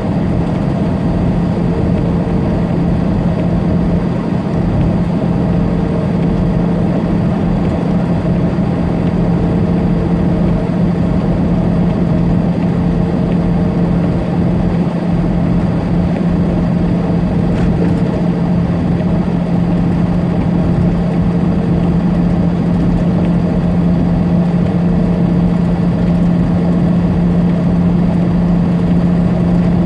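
Tractor-trailer's diesel engine droning steadily, heard from inside the cab, over a constant rumble of road noise as the truck cruises on the highway.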